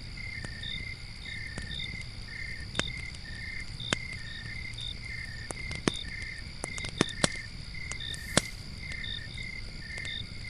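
Campfire burning with a low rush and sharp crackles and pops of wood, about six loud pops scattered through the middle, over crickets chirping steadily.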